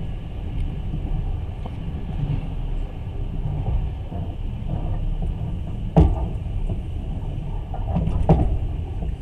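Passenger train running along the track, heard from inside the carriage: a steady low rumble of wheels on rails. There is one sharp knock about six seconds in, the loudest moment, and a few more knocks near the end.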